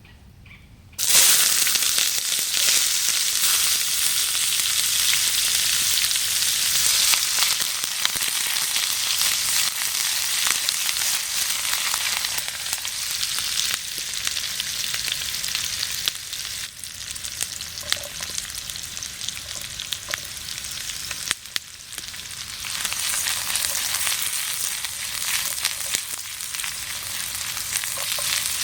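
Food sizzling as it fries in hot oil, starting suddenly about a second in and then running on as a steady hiss with small crackles.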